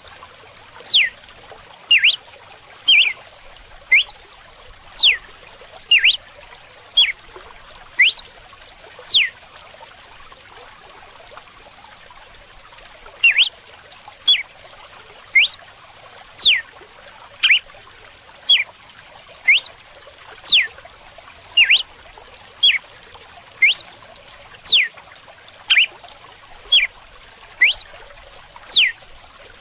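Red-cowled cardinal (galo-de-campina) giving its whip song: a string of sharp, whip-like notes about one a second, most sweeping steeply down in pitch, with a pause of a few seconds about a third of the way in. Faint running water trickles steadily underneath.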